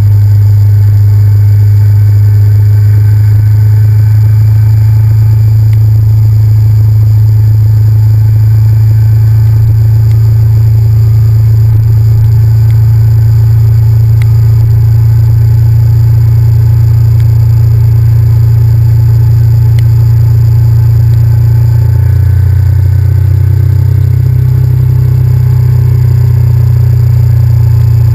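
Honda VTR1000F's 90-degree V-twin engine running at a steady cruise, loud and close on a bike-mounted GoPro. About two-thirds of the way in, the engine note sags briefly, then picks back up.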